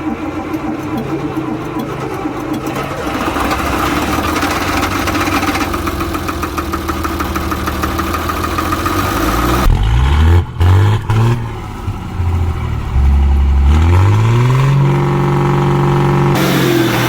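Diesel engine of a 2001 Ashok Leyland bus running after five years standing, held above idle with the throttle. About ten seconds in the engine speed surges up and down unevenly with a couple of brief drops, then about fourteen seconds in it climbs and holds at a fast, steady speed; it is kept revved because it cuts out at idle.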